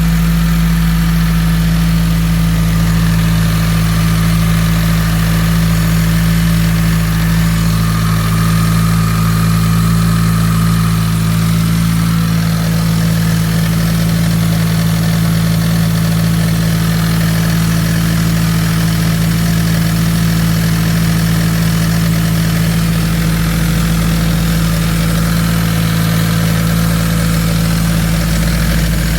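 Subaru WRX's turbocharged flat-four engine idling steadily. The owner says the running fault he was working on is still not fixed.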